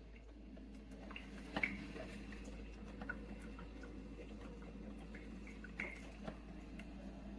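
Faint scattered clicks and ticks over a steady low hum, with one sharper click about a second and a half in.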